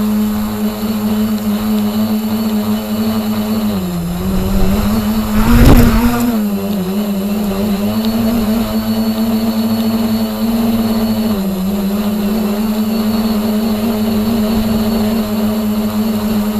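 Radio-controlled helicopter in flight: a steady pitched hum of motor and rotor that sags briefly in pitch about four seconds in and again about eleven seconds in, with a loud rushing swell about five to six seconds in.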